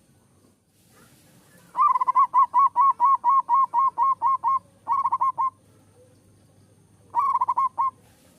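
Zebra dove (perkutut) singing: a fast run of short, clipped cooing notes, about four or five a second, followed by two shorter runs.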